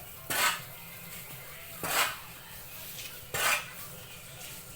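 Repeated short scraping strokes in sawdust mixture for mushroom growing, one stroke about every second and a half.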